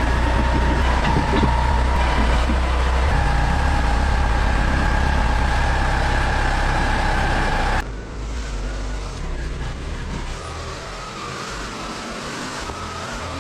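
A motor vehicle engine running steadily with a low rumble and a steady whine. About eight seconds in it cuts off abruptly to a quieter, uneven engine sound.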